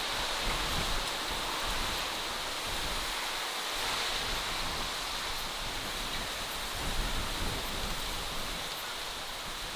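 Steady, even rushing noise of outdoor nature ambience, with a few faint ticks high up.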